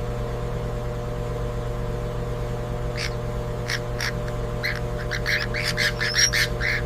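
A bird chick's short, sharp begging squawks, starting about three seconds in and coming faster near the end, over a steady low mechanical hum.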